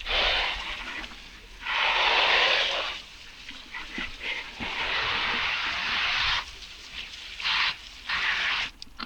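Pressure washer lance spraying in bursts of hiss, the trigger pulled on and off about five times, the longer bursts lasting one to two seconds.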